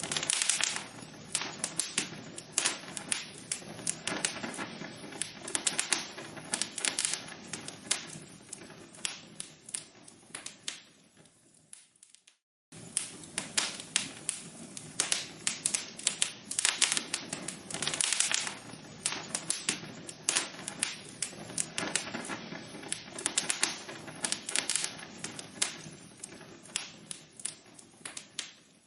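Burning logs crackling in a fireplace: a dense run of sharp crackles and pops over a low hiss that fades, breaks off in a brief silence about twelve seconds in, then starts again at full strength and fades once more.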